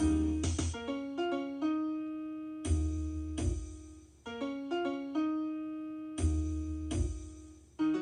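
Piano playing a slow phrase of single notes that ring and die away, with low bass chords struck about every three and a half seconds.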